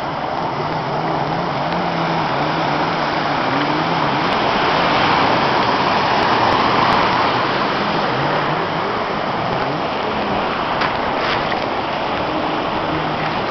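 Jet ski engine running, its pitch rising and falling, under a loud rushing wash of water spray and wind that swells about halfway through.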